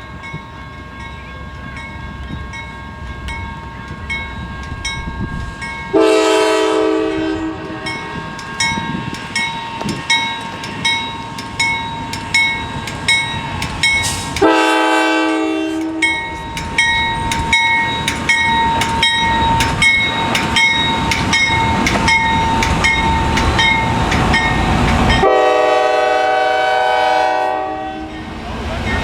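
Locomotive air horn sounding three long blasts as a train passes, with the wheels clacking rhythmically over the rail joints between the blasts.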